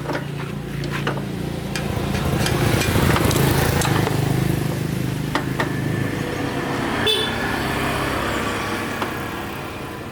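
A motor vehicle engine running with a steady low hum, growing louder to a peak about three seconds in and then fading away, with scattered sharp clicks over it.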